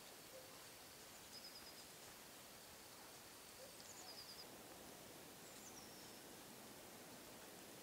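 Near silence in a snowy forest, with faint high-pitched calls of a small bird three times: short runs of rapid notes, one of them starting with a downward slide.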